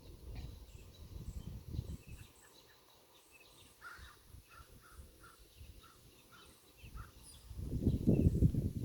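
A bird calling a run of short, evenly spaced chirps, about two a second, through the middle. Low rumbling noise at the start, and louder rumbling near the end.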